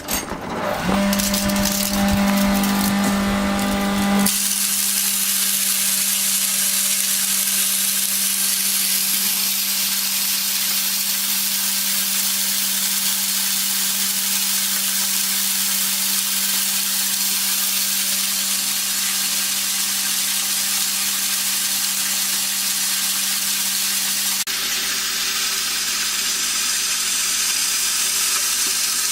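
Electric grain crusher starting up about a second in with a steady motor hum. About four seconds in a loud, even rushing noise joins it, typical of grain being milled, and the machine then runs steadily.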